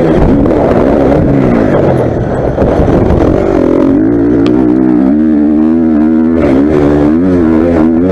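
Four-stroke motocross bike engine being ridden hard, revs rising and falling over and over with the throttle, with a brief drop about two seconds in.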